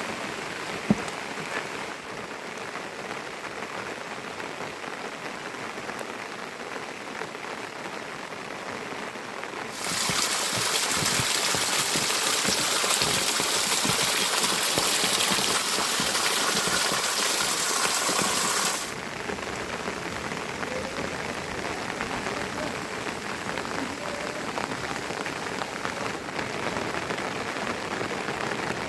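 Steady rain falling and pattering on surfaces, with a single sharp tick about a second in. Roughly a third of the way through the rain turns suddenly louder and brighter, then drops back just as suddenly about two-thirds of the way through.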